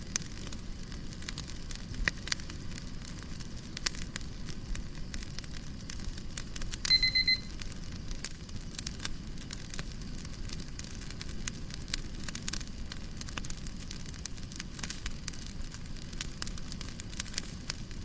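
Fireplace crackling: a low, steady rumble of flames with irregular sharp pops and snaps. About seven seconds in, a brief rapid electronic beeping cuts in for under a second.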